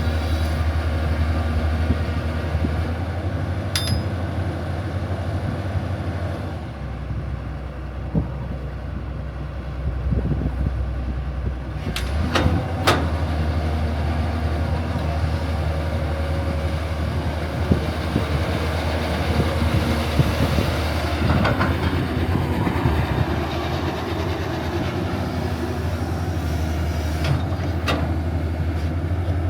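Steady low engine-like rumble with a rough noisy texture, dipping for a few seconds partway through, with a few sharp clicks or knocks.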